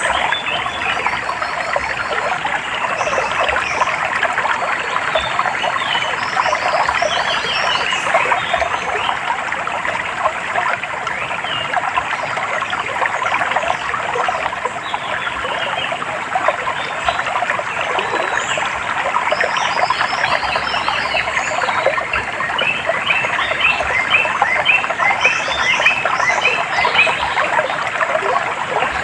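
Running water trickling and splashing steadily, with small birds calling over it in quick repeated high notes, busiest about a quarter of the way in and again near the end.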